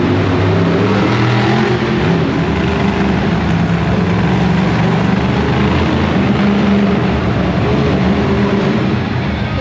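Monster truck engine running loud and steady, a deep drone that holds with no breaks.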